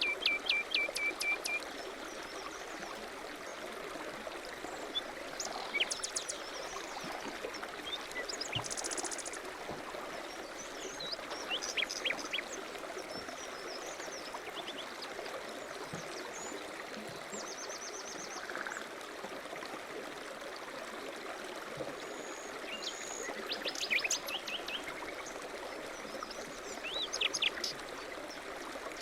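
Small songbirds singing and chirping in short repeated phrases over a steady rushing noise.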